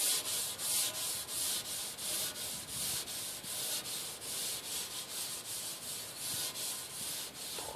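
Scotch-Brite abrasive pad wetted with acetone scrubbed back and forth on an aluminum fuel tank, a steady rhythmic rasping at about three strokes a second, cleaning the metal before a magnet is glued on.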